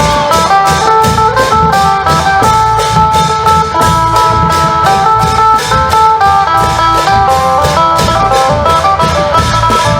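Isan long-drum (klong yao) band playing: a phin, the plucked northeastern Thai lute, runs a quick melody over a fast, steady drum beat.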